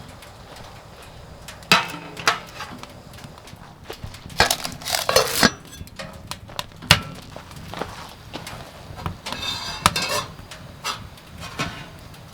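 Irregular knocks and clinks of hard objects being handled, with two short clattering spells about four and a half and nine and a half seconds in.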